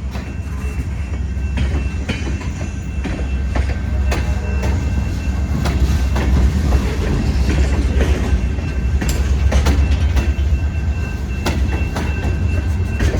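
CSX freight train rolling past on the curve of a wye, with a steady low rumble and irregular clicks of wheels over rail joints. A faint, thin, steady squeal of wheels on the curved track rides above it.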